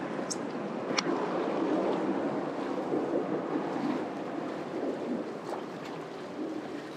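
Water sloshing and wind rushing around a kayak on open water, with a couple of sharp clicks in the first second.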